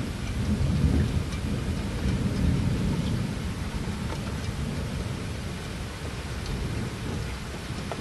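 Distant thunder rumbling low, swelling in the first few seconds and slowly dying away, over steady rain hiss with scattered drops ticking.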